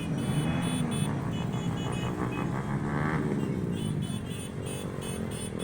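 Cars and motorcycles in a parade driving past with engines running, one engine revving up and back down about halfway through.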